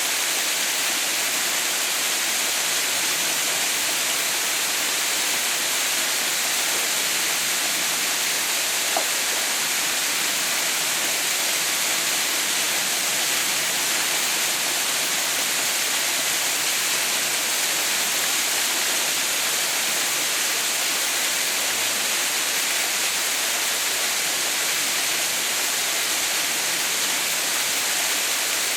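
Water falling at a partly frozen waterfall: a steady, unbroken rush, bright and hissy rather than deep. A tiny click sounds about nine seconds in.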